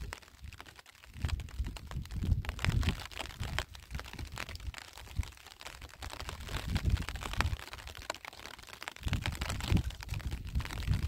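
Footsteps and shovel scuffing on dry, stony soil, heard as scattered short crunches and clicks. Between them come low surges of wind buffeting the microphone.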